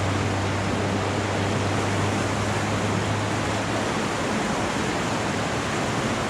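Orange River in flood rushing past bridge pillars: a steady rush of water, with a low hum underneath that stops about four seconds in.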